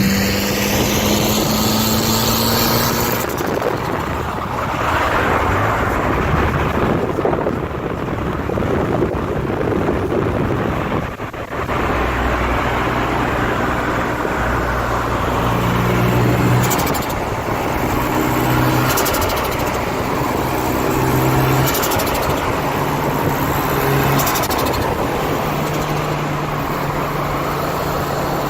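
Toyota Starlet Glanza V's turbocharged four-cylinder engine, with a CT9 hybrid turbo and a screamer pipe, running on low boost with its revs rising and falling. Several short hissing bursts come in the second half, consistent with the screamer pipe venting and turbo flutter off throttle.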